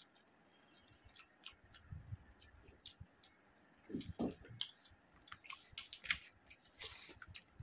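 Close-miked chewing of a mouthful of rice and chicken curry, with many short wet mouth clicks and smacks. Soft low thumps come now and then, and a denser patch of mouth sound comes about four seconds in.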